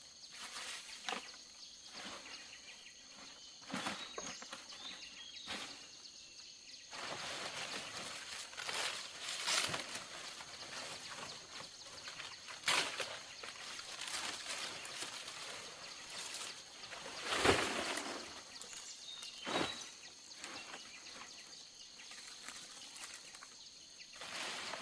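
Scattered sharp knocks and handling noises at irregular intervals, the loudest about two-thirds of the way through, over a faint steady high-pitched hum.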